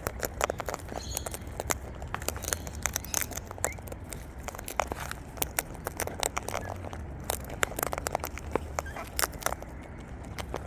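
Wild birds feeding on seed at close range: a dense, irregular run of small clicks and crackles from beaks cracking and pecking at seed and from feet shuffling, with faint bird calls now and then.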